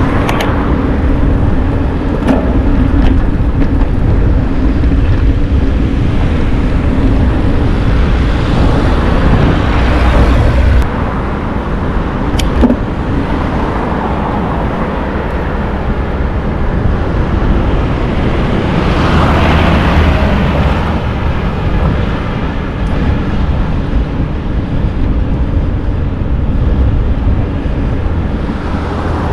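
Steady rushing and rumbling noise of riding a bicycle: wind buffeting the microphone and tyre-on-road rumble, with a few small clicks and two broader swells in loudness, one about a third of the way through and one about two-thirds through.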